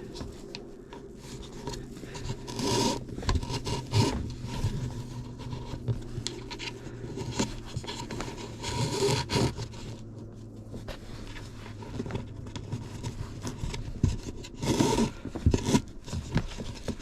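String being pulled through holes in a plywood board and drawn tight, rubbing and scraping against the wood in irregular strokes, with louder pulls about 3, 9 and 15 seconds in.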